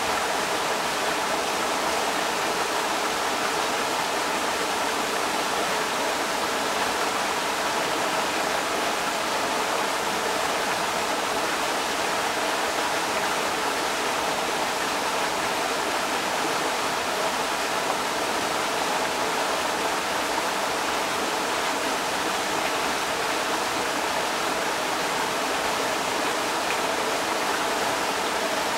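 Creek water rushing and splashing steadily over rocks, an even, unbroken rush.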